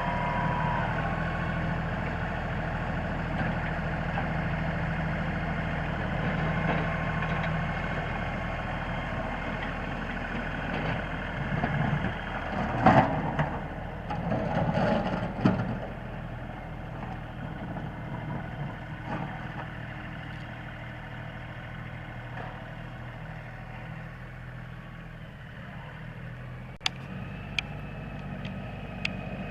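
LS tractor's diesel engine running steadily while plowing snow. It gets louder and rougher for a few seconds around the middle, and there are a few sharp clicks near the end.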